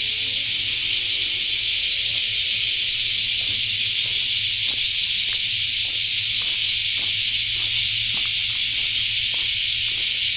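Dense, steady insect chorus, a loud high shrill with a fine rapid pulse. From about three seconds in, footsteps on a path tap along at an even walking pace beneath it.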